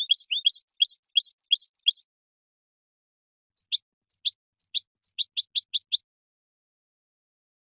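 European goldfinch singing: a quick run of twittering notes, then after a short pause a second series of sharp, evenly spaced notes.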